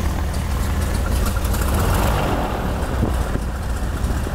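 Cessna 310's six-cylinder piston engine running at a steady low idle, heard from inside the cabin as a steady low drone.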